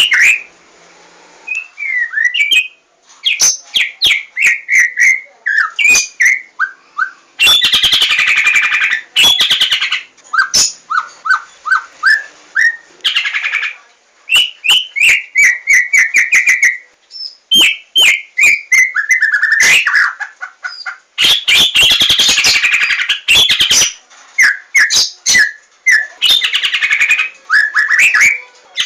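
White-rumped shama (Javan 'larwo' murai batu) singing loudly: fast series of whistled and chirped notes with quick up-and-down glides, broken twice by long harsh rattling passages, about a quarter of the way in and again about three quarters through.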